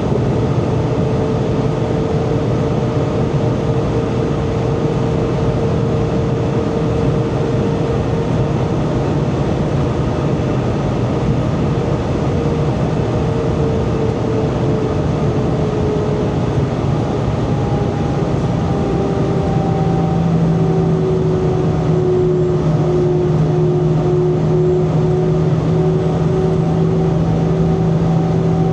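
Airbus A320 cabin noise in flight: a loud, steady roar of engines and airflow, carrying engine tones that slowly slide lower in pitch. A new low hum joins about two-thirds of the way in.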